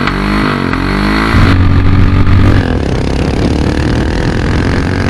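Royal Enfield Himalayan's single-cylinder engine running through a Red Rooster aftermarket exhaust. The throttle is blipped up and down at first, held open louder for about a second near the middle, then it settles into steady running.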